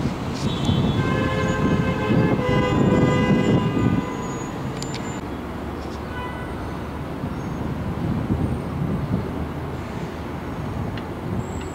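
Electric multiple-unit commuter train accelerating away from the platform. For about the first four seconds a cluster of whining tones sits over the rumble, then it drops to a fainter steady rumble as the train recedes.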